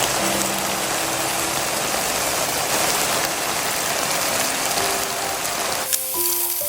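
Steady sizzling of food frying in hot oil in a pan, cutting off about six seconds in, with soft background music.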